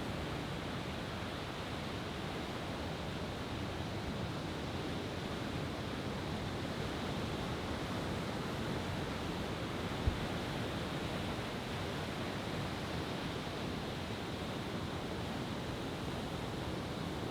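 Steady wash of ocean surf breaking on the beach, with one short low thump about ten seconds in.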